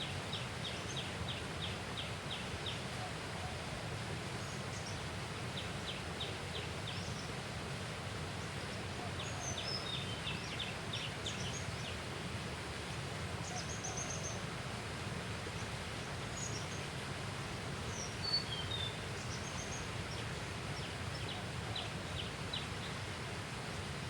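Outdoor riverside ambience: birds calling over a steady low rumble. There are several runs of rapid clicking notes and scattered short high chirps, with one brief louder sound about three quarters of the way through.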